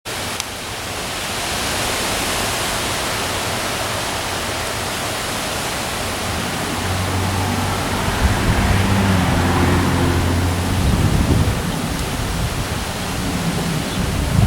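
Heavy rain and strong wind making a steady hiss, with low rumbling gusts buffeting the microphone in the second half. A low, steady-pitched hum joins from about seven to eleven seconds in.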